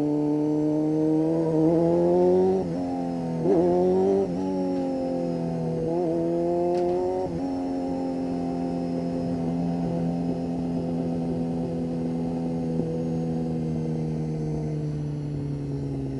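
1992 Honda CBR250RR's inline-four engine, fitted with a Musarri aftermarket exhaust, running while the bike rides in traffic. The revs rise and drop quickly several times in the first seven seconds, then the note holds steady and slowly falls.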